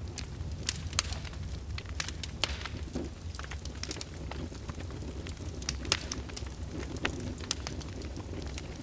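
Open fire in a fireplace crackling, with irregular sharp pops over a steady low rumble; the loudest pops come about a second in and about six seconds in.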